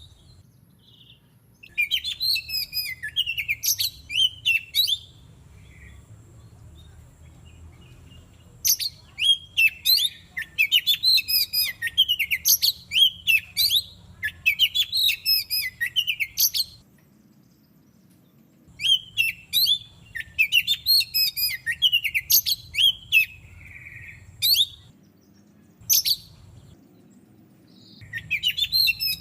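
Oriental magpie-robin (kacer) singing: bursts of rapid, varied, high whistled notes lasting several seconds each, with short pauses between them. A faint low hum lies underneath.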